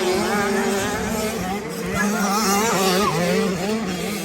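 Motocross bike engines revving up and down on the track, their pitch rising and falling as the throttle opens and closes, several bikes overlapping.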